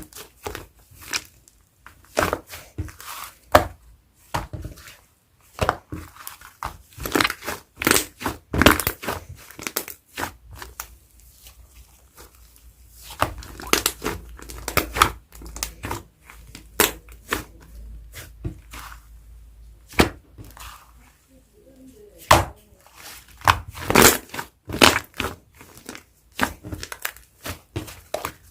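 Fluffy clay slime being squished and stretched by hand, giving irregular sharp pops and crackles, some in quick runs.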